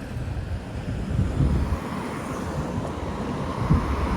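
Road vehicle passing close by: engine rumble and tyre noise that grows louder about a second in, with wind buffeting the microphone.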